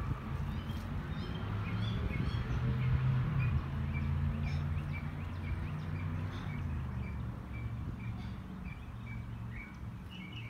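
Birds chirping with short repeated calls, over a steady low rumble.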